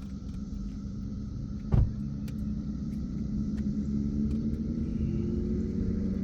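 Car driving, with a steady low engine and road rumble whose engine note rises gradually in the second half. There is a single short knock about two seconds in.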